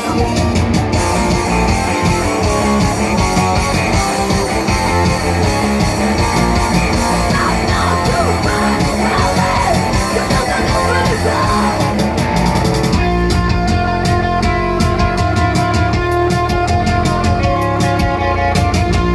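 A rock band playing live, with guitar to the fore. The arrangement shifts abruptly about 13 seconds in to a sparser passage of held notes over a steady beat.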